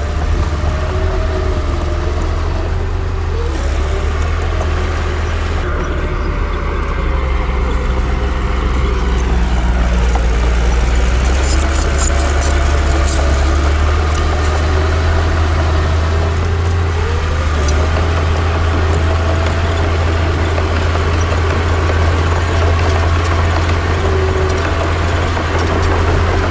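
Komatsu D60 bulldozer's diesel engine running steadily under work, a deep continuous drone with fainter tones that slide up and down as the load and revs shift.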